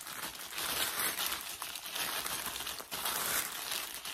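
Continuous crinkling and rustling of plastic packaging being handled, full of small crackles, stopping just after the end.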